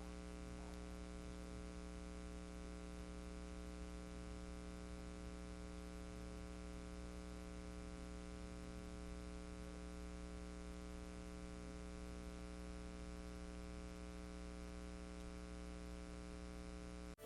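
Steady electrical mains hum with a faint buzz and hiss, unchanging throughout. No wind or rain is heard.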